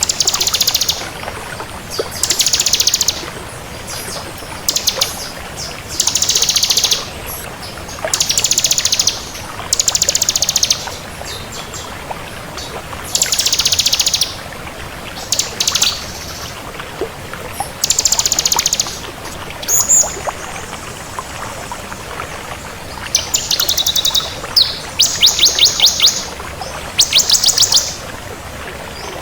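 Ciblek (bar-winged prinia) singing in rapid, high, trilled phrases about a second long, repeated every second or two, over a steady hiss.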